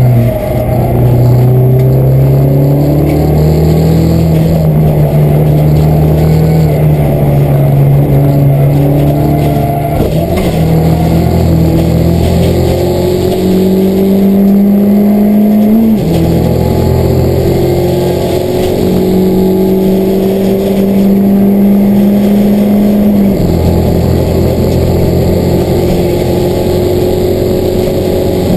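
Peugeot 207 race car's engine heard from inside the cabin, loud under full acceleration. Its pitch climbs slowly in each gear and drops sharply at the upshifts about ten, sixteen and twenty-three seconds in.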